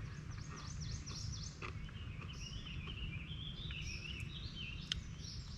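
Birds singing: a few quick high chirps, then a long run of warbling notes, over a steady low outdoor rumble.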